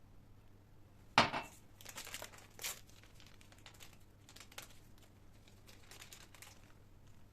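Packaging being crinkled and handled, opening with a sharp loud crackle about a second in and followed by a few seconds of irregular crackling.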